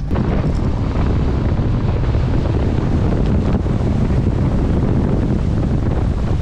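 Loud, continuous rush and splash of floodwater as a 2009 Mitsubishi Delica D5 van charges through a deep puddle, drowning out the engine.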